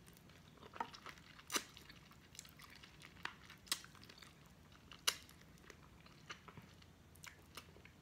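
Close-up chewing and mouth sounds of a person eating adobo chicken wings and rice by hand: soft wet chewing with scattered sharp smacks and clicks, a few of them standing out.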